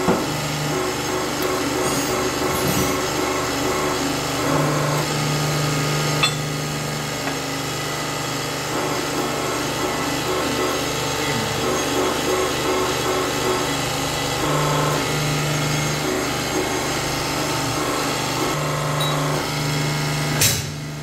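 Workshop tool work on a suspension part's bushing seat: metal scraping and rubbing, with a few knocks. A low machine hum starts and stops several times.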